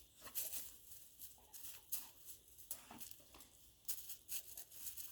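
A scent-detection dog searching: faint, irregular short rustles from its sniffing and moving about.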